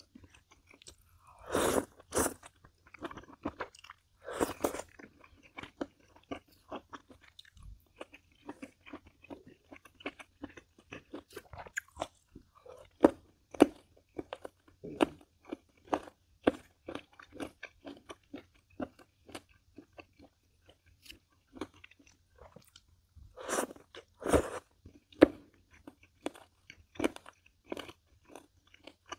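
Close-miked eating: a person chewing with wet mouth clicks and crunching, with a few louder bites about two, four and twenty-four seconds in.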